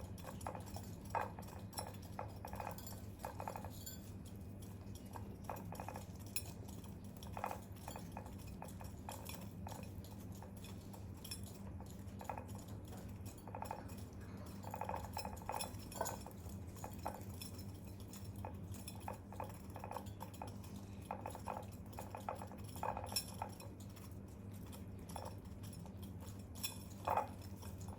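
Pigeons pecking at feed, their beaks making an irregular run of small clicks and taps, over a steady low hum.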